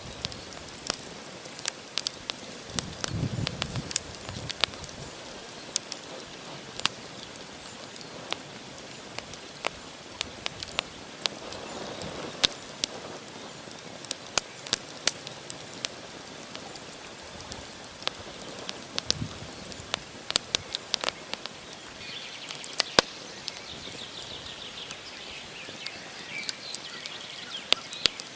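Wood campfire burning, the logs crackling with frequent sharp, irregular pops over a steady hiss.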